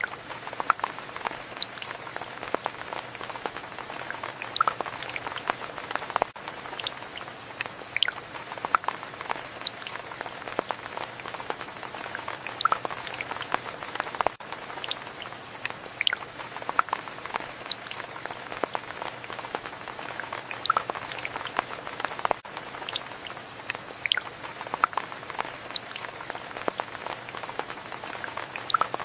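Steady rain with many separate close drops pattering and dripping onto a surface. It is a short recording looped about every eight seconds.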